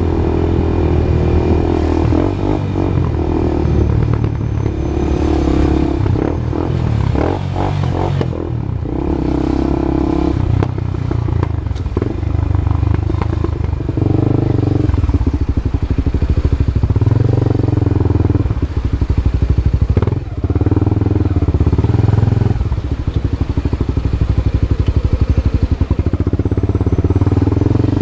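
Honda CB Twister's single-cylinder engine running through a new aftermarket exhaust, its pitch and loudness changing several times.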